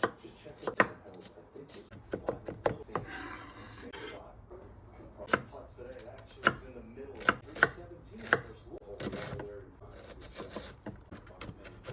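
Knife chopping on a cutting board: a dozen or so sharp, irregularly spaced strikes.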